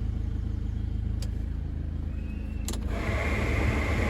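Ford Transit 2.4 diesel engine idling steadily. After a couple of clicks, the cab heater blower fan starts up about three seconds in, a steady whirring rush over the idle.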